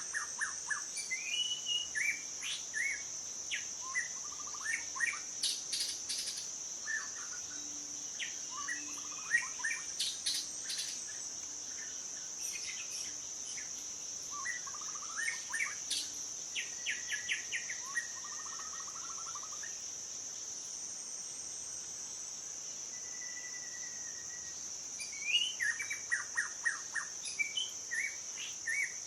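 Wild birds chirping and trilling in short scattered phrases, with a lull in the middle and a busy cluster of calls near the end, over a steady high-pitched drone.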